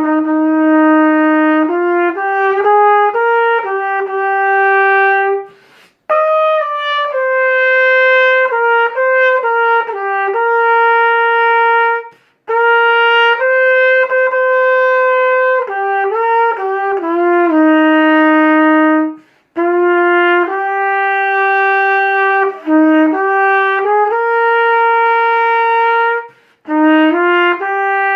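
Solo trumpet playing a slow melody, one note at a time, in phrases of about six seconds with brief breaks for breath between them.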